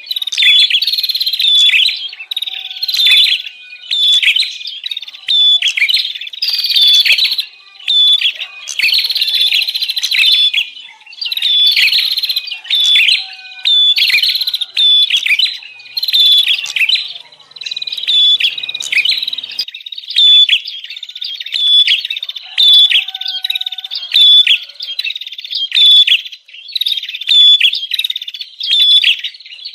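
Frantic, busy chirping of prenjak (prinia) birds: high chirps in bursts of about a second with short gaps, repeating over and over. This is a lure call used to draw in wild prenjak.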